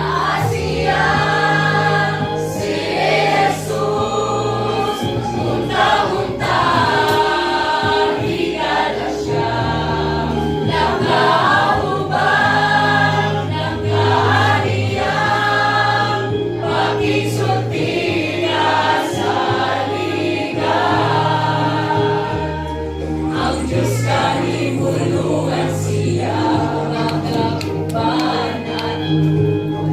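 A choir singing a gospel hymn over held low bass notes.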